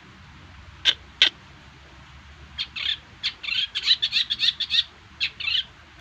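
Bird song in the style of the long-tailed shrike (cendet): two sharp, harsh notes about a second in, then a rapid chattering run of short notes lasting about three seconds.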